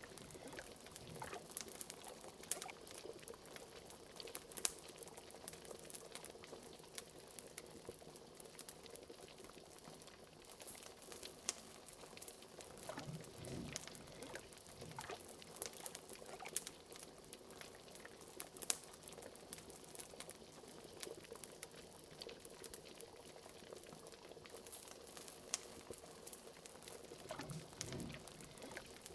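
Liquid bubbling steadily in a pot, with a few deeper gurgles, over scattered sharp crackles and pops of a wood fire.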